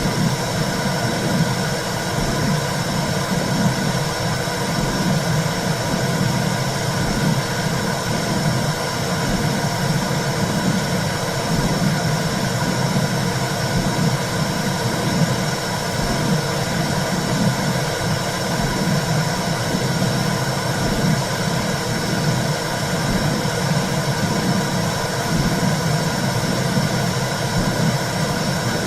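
Womb sound: a steady, low whooshing rumble with a regular pulse, like blood flowing in the womb, under a constant hiss.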